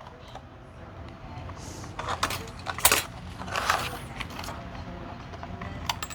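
Nickel strip and small metal battery parts being handled, giving scattered light metallic clicks and jingling, with the sharpest click about three seconds in.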